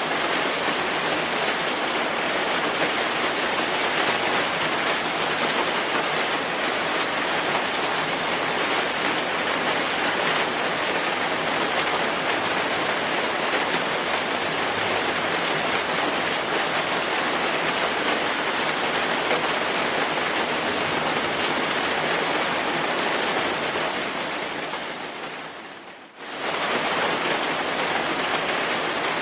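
Steady rainfall, a dense even hiss of drops. Near the end it fades down briefly and then comes straight back at full level.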